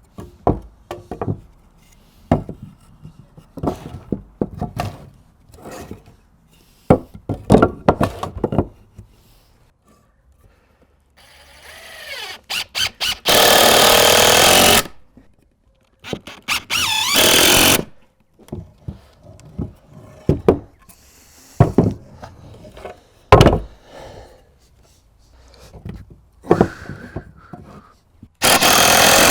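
Wooden framing boards being knocked and handled. A power drill then drives screws in short runs of about a second and a half, twice around the middle and again near the end.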